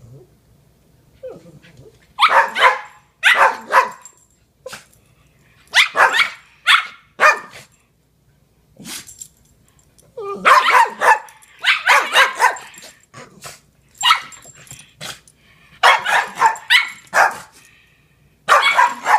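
A puppy and an older dog barking at each other in play, sharp barks in quick runs of two or three, starting about two seconds in and pausing briefly in the middle.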